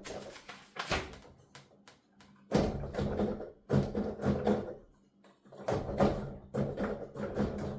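Digital piano keys clacking and thumping under fast playing, with the instrument's sound going only to headphones, so just the mechanical key action is heard. It comes in quick runs of taps with short pauses, the longest about two seconds in and again around five seconds.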